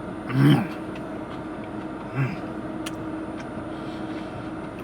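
A person tasting ice cream gives two short closed-mouth 'mm' hums of approval, about half a second in and again about two seconds in, over a steady low hum with a constant tone.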